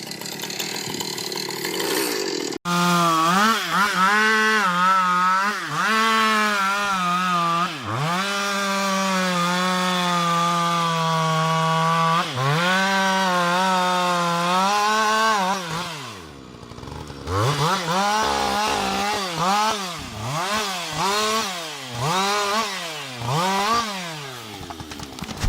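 Chainsaw running at high revs while cutting, its pitch sagging briefly under load several times. About 16 s in it drops toward idle, then is revved up and down in short throttle blips about once a second.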